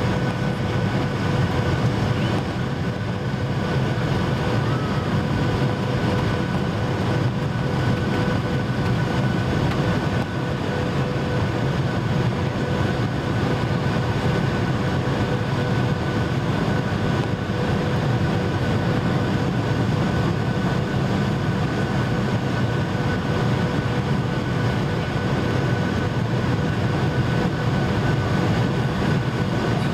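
Boeing 737-800 cabin noise from a seat over the wing: a steady rumble of the CFM56 engines and the airflow, with a steady whine over it and no change in level.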